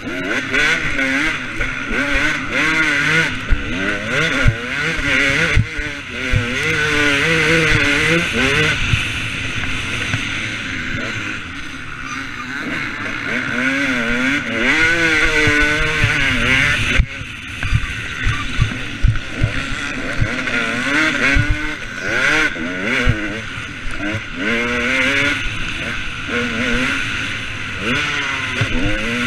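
KTM 250 SX two-stroke motocross bike engine revving hard and backing off again and again, its pitch rising and falling through the gears, over wind rush and scattered knocks.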